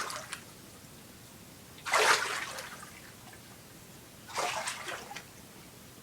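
Water being swished and splashed in a small Foley pool to imitate ocean water sounds: two separate splashes about two and a half seconds apart, each fading out within about half a second.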